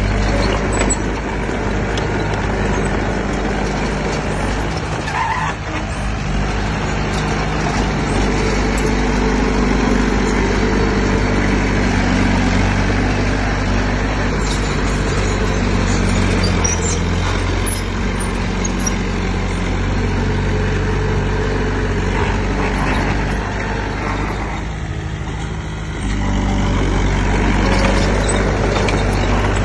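Heavy diesel engine of earthmoving machinery running steadily, its note shifting now and then. It eases off briefly near the end, then picks up again.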